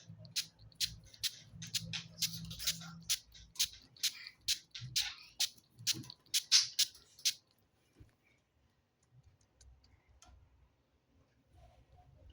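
Pet parrot making a quick run of sharp clicks and short chirps, two or three a second, for about seven seconds, then only a few faint ticks.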